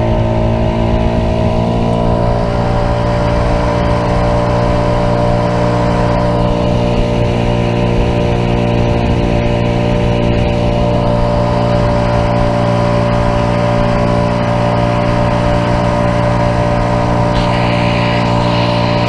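Boat motor running at a steady high speed, one even engine drone throughout.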